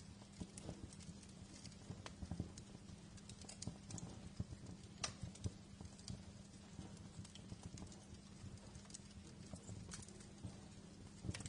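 Wood fire crackling in a fireplace, with irregular small pops and snaps over a steady low hum.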